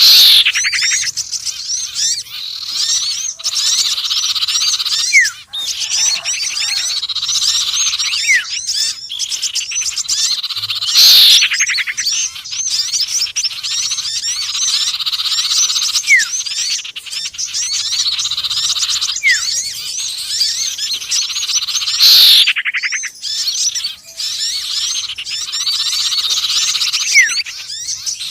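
Bird-lure recording mixing the calls of several small songbirds (sirtu, konin and sepah raja): dense high chirping and trilling, with a loud falling call that repeats about every eleven seconds and short rising slides in between.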